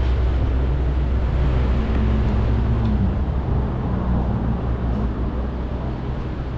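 Motor vehicle engine running close by in the street: a low, steady rumble that eases slightly near the end.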